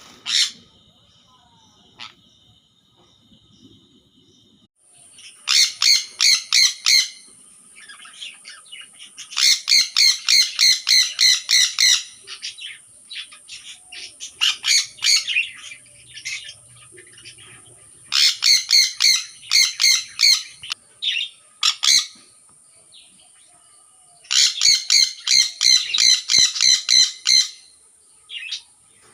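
Pet parrot calling in rapid runs of shrill chirps, about five or six a second. There are four bouts of a second and a half to three seconds each, with scattered single calls between them.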